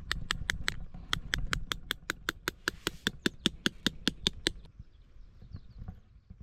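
Tent peg being driven in with a hammer: a fast, even run of sharp metallic taps, about five or six a second, that stops a little over halfway through, leaving a few faint ticks.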